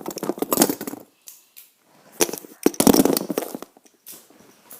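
Fidget spinners and their pencil case being handled and rummaged through, making two bursts of rapid crackly clicking and clattering.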